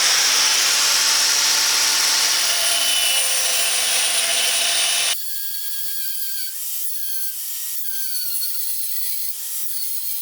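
Steel C-channel being cut: a loud, steady cutting noise that stops abruptly about five seconds in, followed by quieter scraping with faint squeals that rise and fall.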